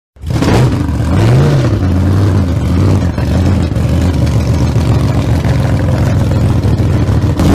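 Engine running at idle, cutting in suddenly, with one quick rev that rises and falls about a second in, then settling into a steady, slightly lumpy idle.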